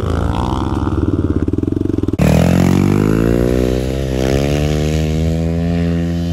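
Small dirt bike engines revving: a pulsing engine note climbing in pitch, then, after an abrupt cut about two seconds in, an engine accelerating with rising pitch and settling into a steady run.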